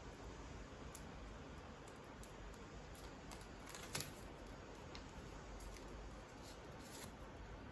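A sheet of origami paper being folded and creased by hand: faint rustles and small crackles, with one sharper crackle about four seconds in.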